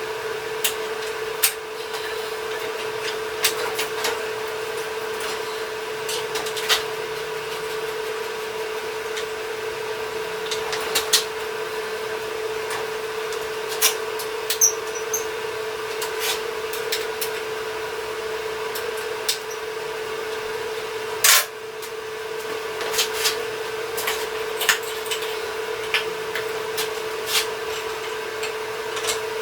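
Steady mechanical hum at one constant pitch, with scattered clanks, taps and rubbing of hand tools and metal parts being fitted together. A louder, longer clank comes about 21 seconds in.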